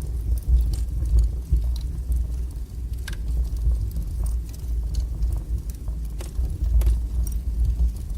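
Wood fire burning in a fireplace: a steady low rumble with scattered small crackles, and two sharper pops, about three seconds in and near seven seconds.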